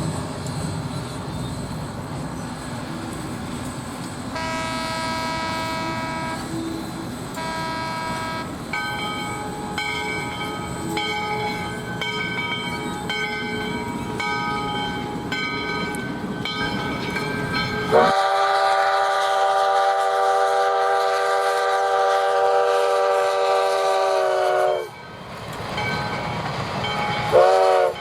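Steam locomotive No. 148's chime whistle blowing a long chord of several notes that sags in pitch as it cuts off, followed by a short toot near the end, over the rumble of the moving train. Earlier, a few shorter whistle sounds and a run of brief repeated tones.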